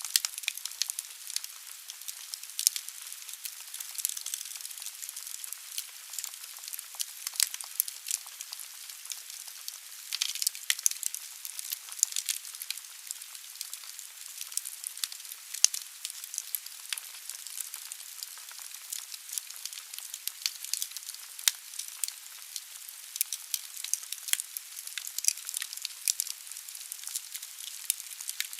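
Wood fire burning in a fireplace: a steady hiss with many sharp, irregular crackles and pops from the burning logs.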